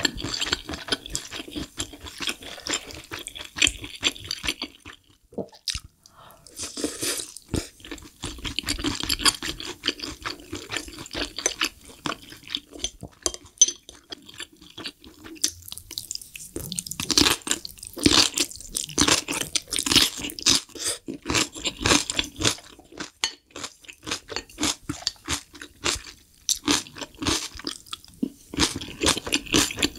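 Close-miked eating sounds: wet chewing and mouth clicks from spoonfuls of soft mapo tofu and fried rice, mixed with crunchy bites of kimchi. The chewing goes on almost without a break, with a couple of short pauses.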